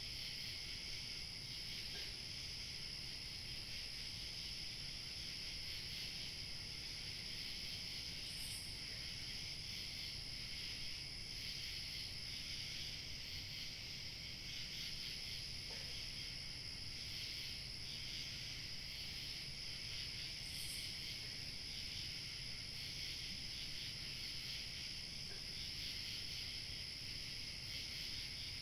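Evening chorus of crickets chirping steadily and densely, with a thinner high-pitched trill on top that drops out for a couple of seconds about halfway through. A low steady rumble of light wind runs underneath.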